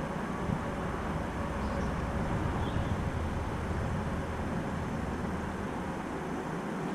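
Wind rumbling on the microphone: a steady low noise with no distinct events.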